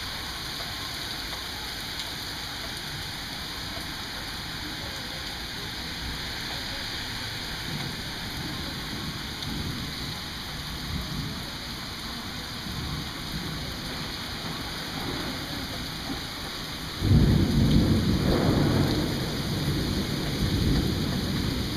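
Steady rain falling, with thunder rumbling faintly from several seconds in. About seventeen seconds in a sudden loud thunderclap breaks and rolls on to the end.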